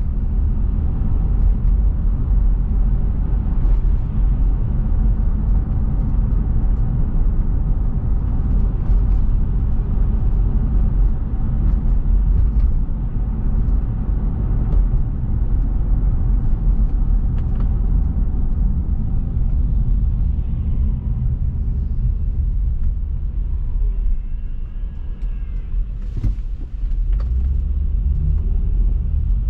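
A car driving, with a steady low rumble of road and engine noise. The rumble eases off for a few seconds past the middle, with a short sharp click, then picks up again.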